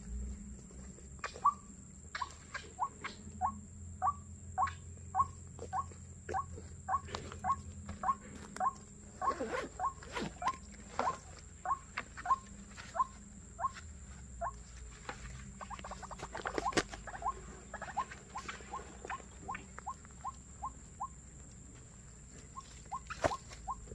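White-breasted waterhen (ruak-ruak) calling: a long series of short, sharp notes at about three a second, broken briefly near the end, as used by trappers to lure the birds in.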